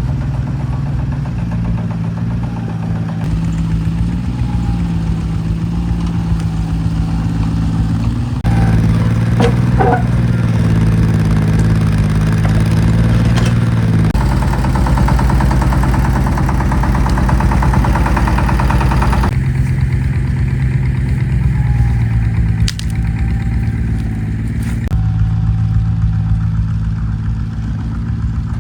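Mini excavator's diesel engine running steadily. Its sound changes abruptly several times and is louder through the middle, with a single knock near the end.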